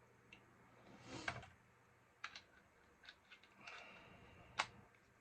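Sharp plastic clicks and snaps from a spring-loaded desoldering pump (solder sucker) being handled, with its plunger cocked and fired. There is a louder scraping rustle about a second in, and the sharpest snap comes near the end. The pump has just had its tube cleared and is now firing freely again.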